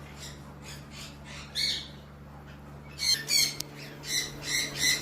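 Aviary birds squawking: one high call, then from about three seconds in a quick run of short, sharp calls.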